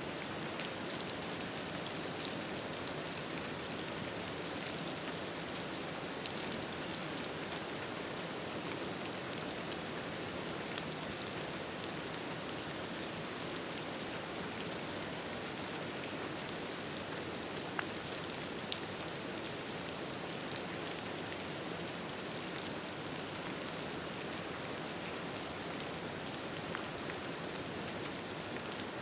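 Steady rain falling, with scattered light clicks and ticks throughout.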